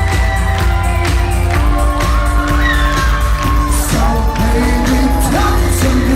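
Pop song performance: a male voice sings long held notes over a band with a steady drum beat and bass.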